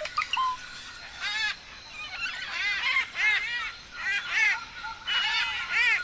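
Forest birds calling: runs of short, harsh calls, each note rising then falling in pitch, repeated several times a second. A steady high tone runs behind them.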